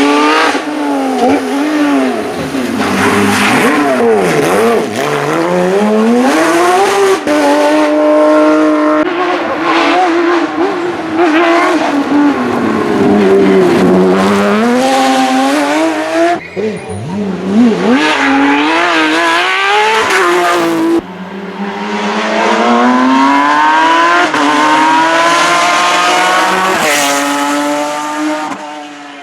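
Porsche 911 GT3 rally car's flat-six engine at full throttle, pitch repeatedly climbing as it revs up through the gears and falling on lifts and braking, with two sharp cut-offs of the throttle in the second half.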